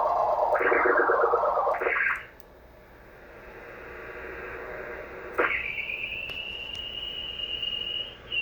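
Beat-note tone of a homebrew VFO heard on a ham radio receiver. It warbles rapidly and slides in pitch while the oscillator's coil bounces, because the coil's movement shifts the oscillator frequency. The tone fades out about two seconds in, then just past five seconds it sweeps sharply up into a high, nearly steady whistle that creeps slowly higher.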